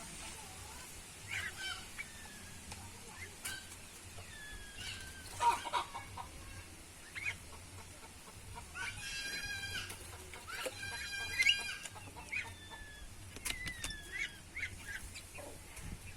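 Several small birds chirping and calling: short chirps and sliding whistled notes, with two longer, harsh, buzzy calls about nine and eleven seconds in.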